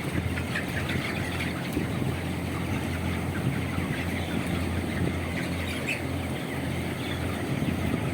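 A large flock of 25-day-old broiler chickens calling: many short high peeps and squawks over a steady low mechanical hum.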